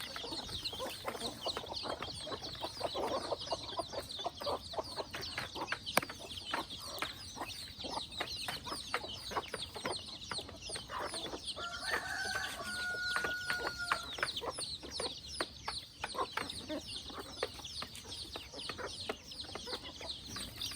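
A flock of free-range chickens clucking continuously, with one drawn-out crow from a rooster about midway through.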